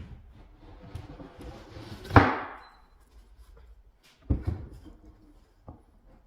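Knocks and bumps: one sharp, loud hit with a short ring about two seconds in, then a second heavier knock with a brief rattle about two seconds later, and lighter clicks between.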